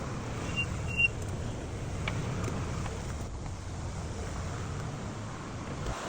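Lexus GS350 F Sport brakes squealing: two short, high squeaks about half a second apart near the start, the second louder, over steady car and road noise. The squeal comes from the brake shim, a known cause of squealing on this model that an updated shim is meant to fix.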